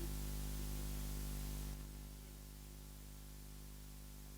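Steady electrical hum and hiss with no speech, stepping down in level a little under two seconds in.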